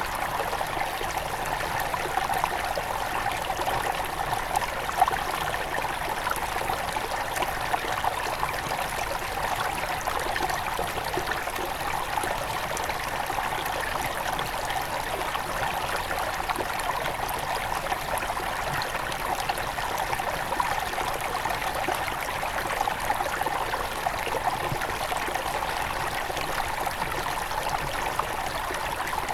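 Small river near its source running over stones: a steady, even babble of flowing water.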